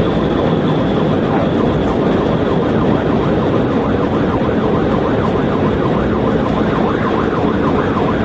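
Police cruiser at pursuit speed: steady, loud engine and road noise, with a siren sweeping rapidly up and down in a yelp, faint under the road noise from about four seconds in.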